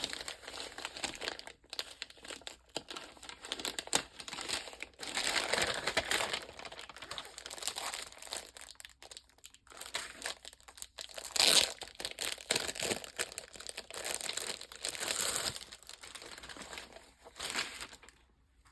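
Packaging crinkling and rustling as it is handled and opened, with irregular crackles coming in bursts and one sharper crackle about two-thirds of the way through.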